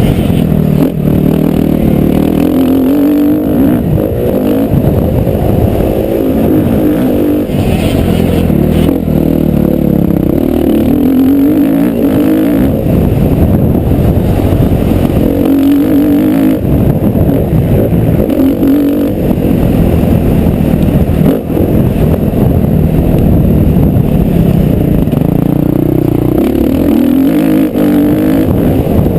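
Motocross bike engine under hard riding, revving up and falling back again and again as the throttle is worked and gears change.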